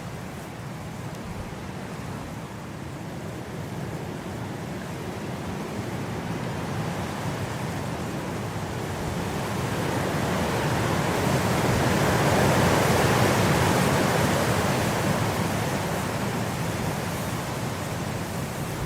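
Blizzard wind blowing as a steady rush that swells into a strong gust around the middle, then eases off.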